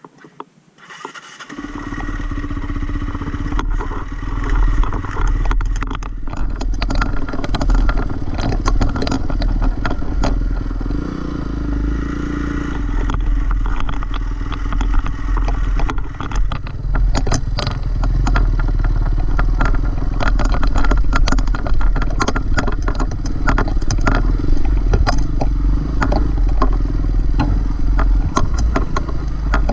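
Dirt bike engine starts about a second and a half in and keeps running, with clattering and scraping over it as the bike moves on rough trail.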